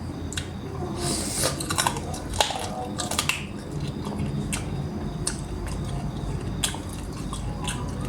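A person chewing and biting into chicken curry, with irregular sharp clicks and wet smacks.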